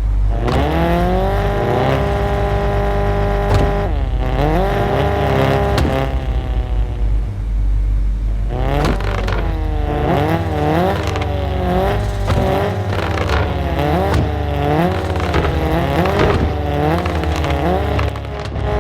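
Volkswagen Golf Mk7 with a straight-piped exhaust revving: the revs climb and hold steady for a few seconds, drop, climb again and settle low, then from about halfway rise and fall in a quick run of repeated throttle blips.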